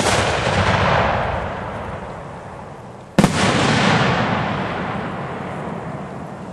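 Aerial firework shells going off: a loud bang about three seconds in, each report followed by a long rolling echo that slowly fades, with the tail of an earlier burst rolling away at the start.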